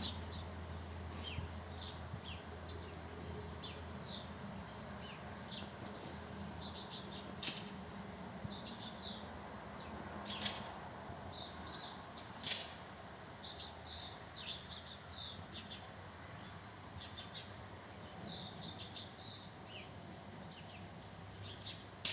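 Small songbirds chirping, many short high chirps overlapping throughout, with a few brief sharp clicks and a faint steady low hum behind.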